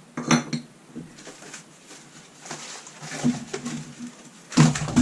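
Handling knocks and clatter as repaired Leslie back caps are picked up and set down, a few sharp knocks with the loudest just before the end.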